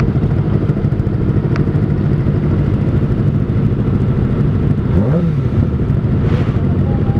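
Kawasaki ZX-25R's 250 cc inline-four idling steadily through an R9 Zeta aftermarket exhaust, with a brief rise and fall in pitch about five seconds in.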